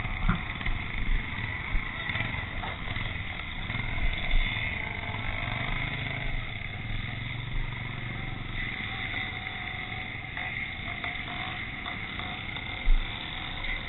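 Pre-65 motocross motorcycles racing at a distance, a steady engine drone that swells around the middle and then eases, with low thumps of wind on the microphone.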